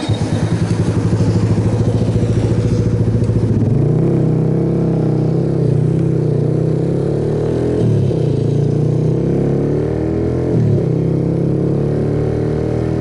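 Suzuki Yes single-cylinder motorcycle engine pulling away and accelerating, with the engine note dropping briefly about 8 s and 11 s in as the rider changes up through the gears.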